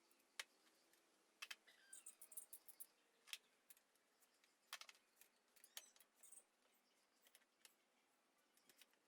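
Faint, irregular small clicks and taps, clustered in places, over near-silent room tone.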